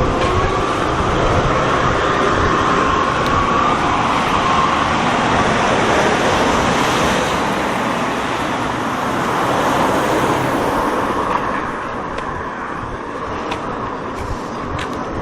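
Traffic noise from a vehicle passing close by, loud for about eleven seconds and then easing off.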